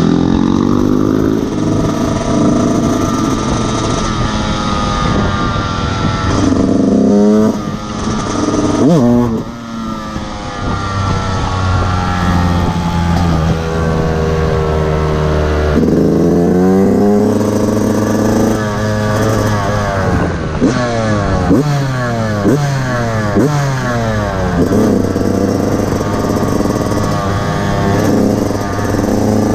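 Fantic XE 125 single-cylinder enduro motorcycle engine revving hard under load, its pitch climbing and falling back again and again as the throttle is worked and gears are changed. There are a few brief throttle dips.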